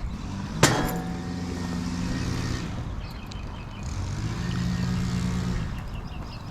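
A sharp knock about half a second in, then a motor runs steadily in two stretches of about two seconds each.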